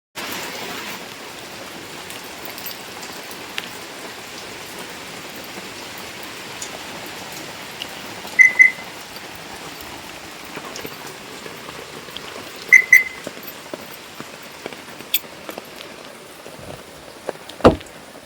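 Steady rain falling, an even hiss with faint scattered clicks of drops. Two quick high double beeps sound about eight and thirteen seconds in, and a single heavy thump comes near the end.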